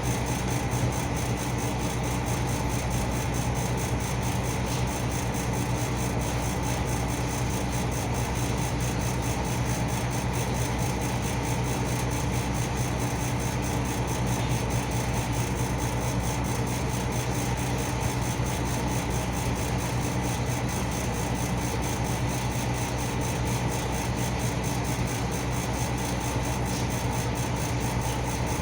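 Car engine idling steadily, its low hum holding one pitch without revving.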